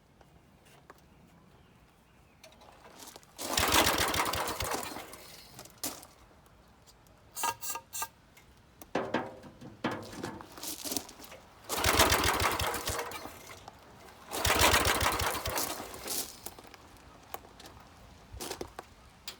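Small gasoline engine of a gas-powered air compressor being pull-started three times, each pull a short burst of rapid cranking that dies away without the engine running on, with clanks and rattles between the pulls. A no-start: the owner goes on to check that it is getting spark.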